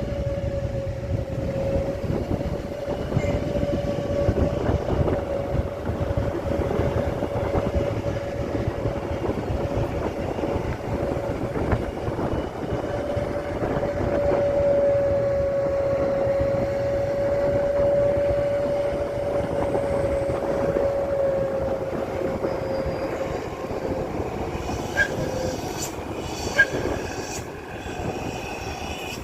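Heavy truck on the move: a steady rumbling noise with a steady high whine over it, which fades near the end. Two short sharp clicks near the end.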